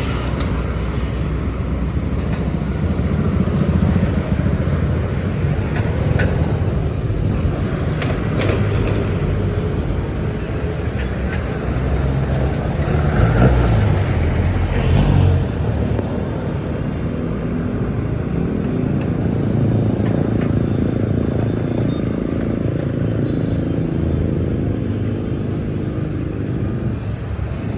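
Heavy container trucks running in traffic: a steady low engine rumble, with one engine growing louder and rising in pitch about halfway through.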